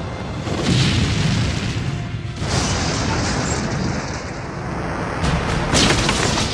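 Low rumbling explosion with a rush of blast wind, under music. The rumble swells about a second in and again near the end.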